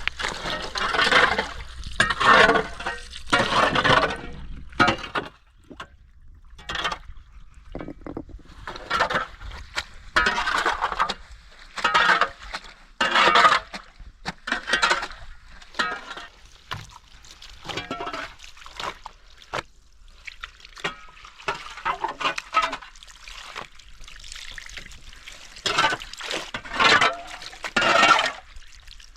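Water being splashed and sloshed in irregular bursts, each a second or less, with short pauses between them.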